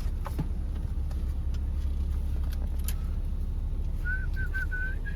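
Steady low rumble of a car's engine heard from inside the cabin, with a few light clicks. From about four seconds in comes a run of short, high beeps, all at one pitch.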